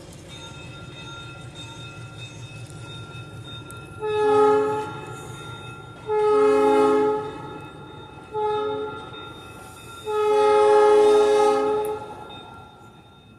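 Diesel locomotive's multi-chime air horn sounding four blasts, long, long, short, then a final longer one: the grade-crossing signal. The locomotive's engine rumbles steadily underneath.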